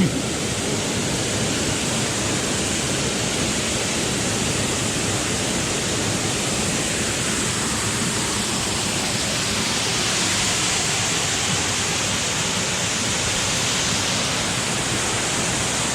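Steady rush of a waterfall pouring onto rocks, an even, continuous roar of falling water.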